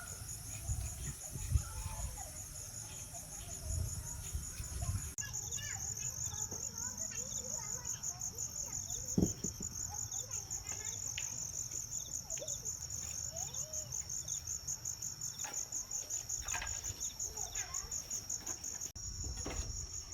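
Insects chirping in a steady high-pitched chorus that pulses about four times a second, over a low rumble, with one sharp knock about nine seconds in.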